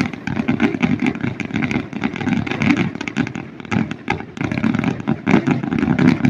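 Fireworks going off in a dense, continuous string of pops and crackles, many reports close together.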